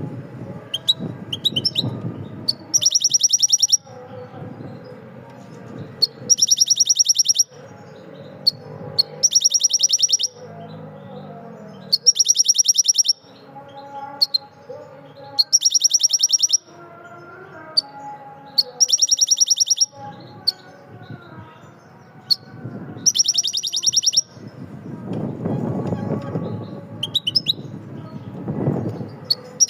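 A bird's high, rapid trill, each about a second long, repeated about every three seconds, with faint voices or music underneath.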